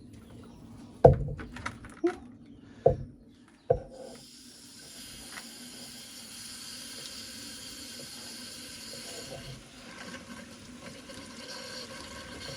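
Four sharp knocks over the first four seconds, then water from a hose rushing steadily through a removed car radiator to flush the old coolant and gunk out of it.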